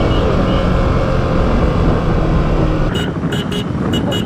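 Motorcycle running on the road with a dense low rumble of engine and road noise. About three seconds in comes a quick run of sharp clicks or knocks.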